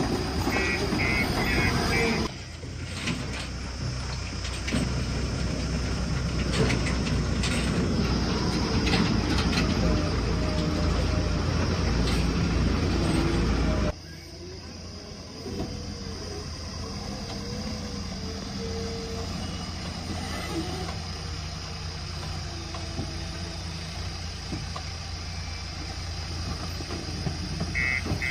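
Heavy diesel machinery engine running steadily. About halfway through the sound drops suddenly in level and carries on quieter. A quick string of short high beeps sounds in the first couple of seconds.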